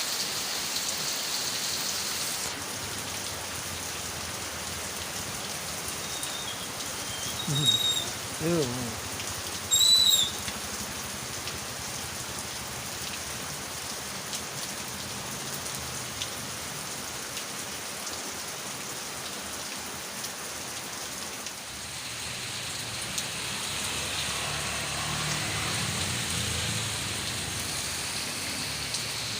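Heavy rain pouring steadily, a constant even hiss. About eight to ten seconds in, a few short high chirps and a brief lower pitched sound rise above it.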